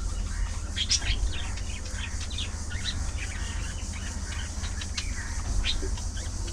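A flock of budgerigars chirping and chattering in quick, overlapping short calls, over a steady low hum.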